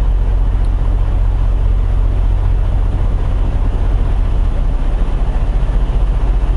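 Semi truck's diesel engine idling, heard from inside the cab as a steady low rumble with a fast, even throb.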